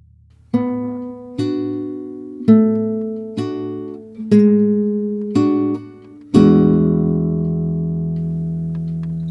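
Guitar playing a song intro: single chords plucked about once a second, each left to ring and fade, then a last chord held ringing for about three seconds.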